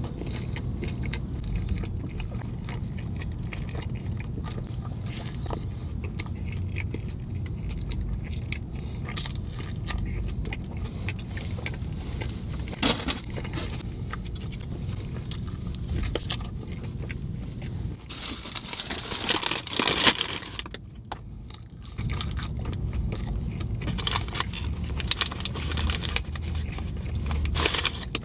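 A person chewing and biting into a toasted burger sandwich (a Burger King Whopper Melt) close to the microphone, with many small wet crunches over a steady low hum. About eighteen seconds in there is a louder, noisier stretch lasting a couple of seconds.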